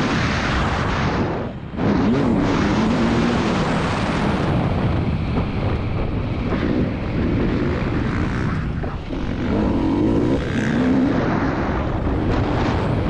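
KTM 300 TPI two-stroke motocross engine revving up and down under hard riding, its pitch rising and falling continuously. About one and a half seconds in, the throttle is briefly shut and the engine drops off before pulling hard again.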